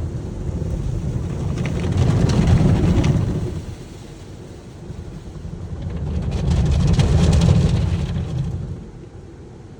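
Car wash equipment running: a rushing of water spray and machinery that swells loud twice, a few seconds apart, then drops back.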